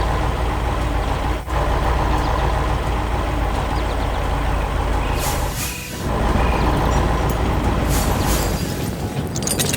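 Heavy machinery engine running steadily, dipping briefly about one and a half and six seconds in, with short hisses around five and eight seconds and a fast, even high crackle starting near the end.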